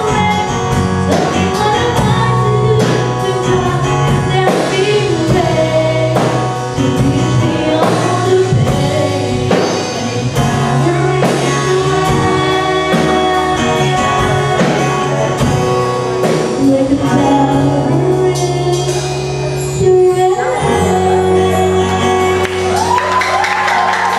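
A song: a voice singing over sustained instrumental accompaniment with a steady bass.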